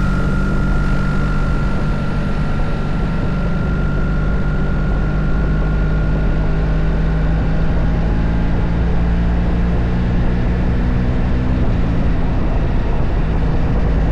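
BMW boxer-twin motorcycle engine running at a steady cruising speed, its note holding even, with wind and road noise over it.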